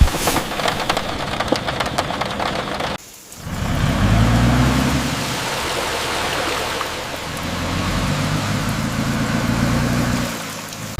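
Steady rain with dense crackling taps for the first three seconds. After a brief dip, a deep rumble swells up under the rain and eases off near the end.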